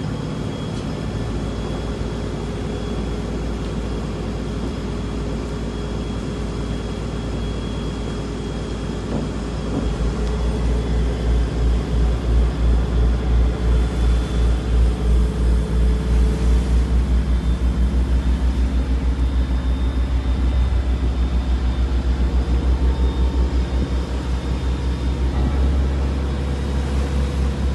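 Boat engine running with a steady low hum; about ten seconds in it grows louder and takes on a regular pulsing throb, as the engine is given more power.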